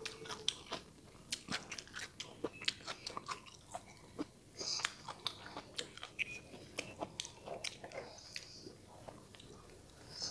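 A person chewing a mouthful of stir-fried chicken gizzard and vegetables close to the microphone: a steady run of small crunches and wet mouth clicks.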